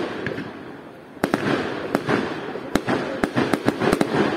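Fireworks display: sharp bangs of bursting shells over crackling. The bangs are sparse at first, come thick from about a second in, and run in quick succession near the end.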